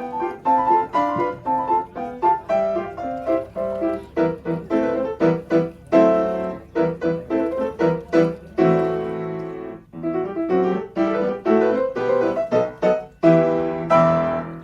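Piano music: a melody of single struck notes over fuller chords, ending on a last chord near the end.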